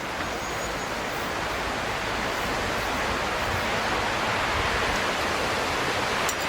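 Steady, even rushing noise with no distinct strokes or knocks.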